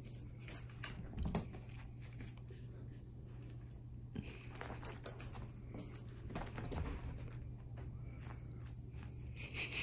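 Scattered light taps, clicks and rustles from a feather cat wand toy being swished about while cats bat and pounce at it, over a faint steady hum.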